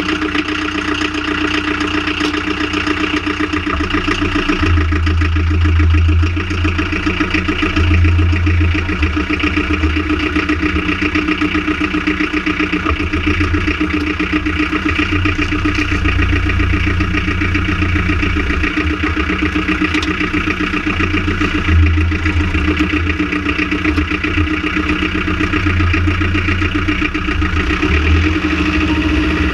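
Renault Trafic van engine idling steadily just after starting, with a deep drone that swells and fades at uneven intervals. This is the engine vibration the owner is investigating.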